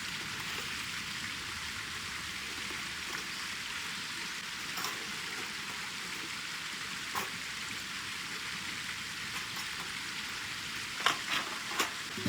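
Wood fire crackling: a steady hiss with scattered sharp pops, and a quick run of louder pops near the end.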